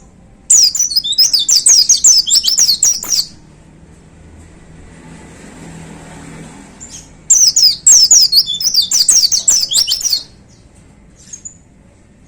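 A pleci (white-eye) singing: two rapid bursts of high, quick chirping notes, each about three seconds long, with a pause of about four seconds between them.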